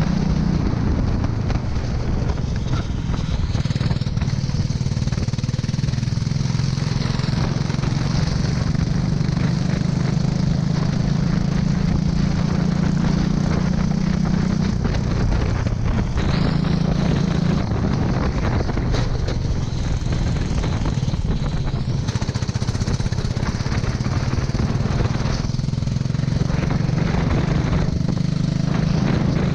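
A racing kart engine running hard, its note dropping and climbing again several times as the kart slows for corners and accelerates out, under a steady hiss.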